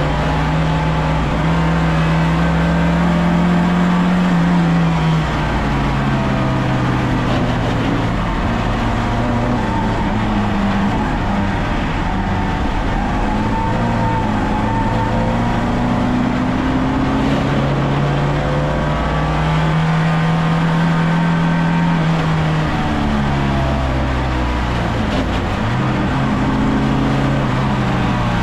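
VAZ 2101 race car's four-cylinder engine driven hard. The revs climb and drop sharply again and again as it changes gear.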